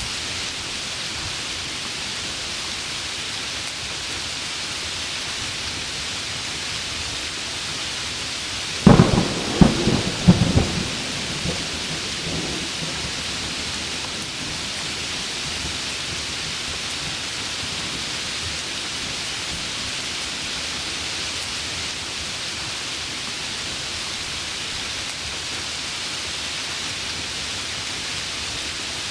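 Heavy rain falling steadily, with a thunderclap about nine seconds in: a burst of sharp cracks over a couple of seconds that rumbles away.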